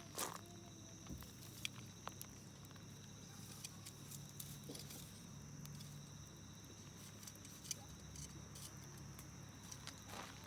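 Wood campfire burning, with faint, irregular crackles and pops over a steady high thin tone.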